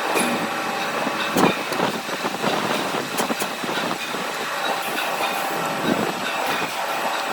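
Heavy machine-shop machinery running steadily with a mix of hum and whine, and irregular metallic clanks and rattles throughout.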